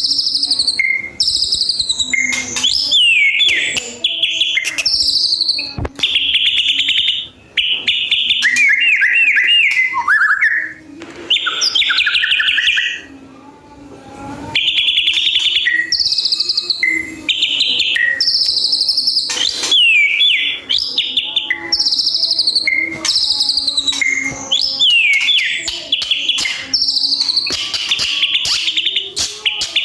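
White-rumped shama (murai batu) singing loud, varied whistled phrases in quick succession, with sharp clicks between them and a brief lull about halfway through.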